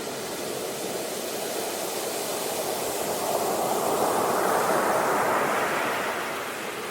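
Ocean waves breaking and washing up a beach. One wave swells to its loudest about halfway through, then draws back and eases off near the end.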